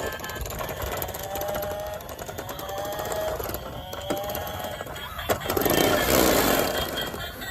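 Small motors of battery toy cars whirring with a fine rapid ticking, a few gliding tones over it, and a louder rush of noise about five and a half seconds in.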